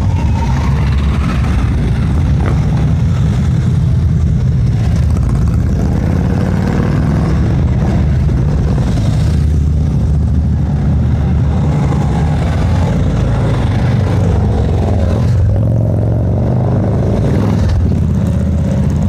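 Harley-Davidson motorcycle engine running steadily while riding, a loud low-pitched engine note.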